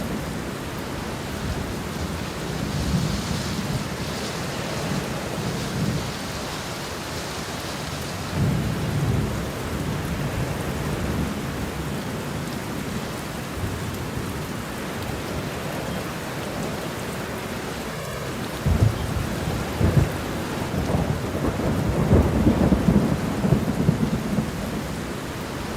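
Steady rain with low, rolling thunder rumbling in the distance. The rumbles swell a few times, most strongly in the last several seconds.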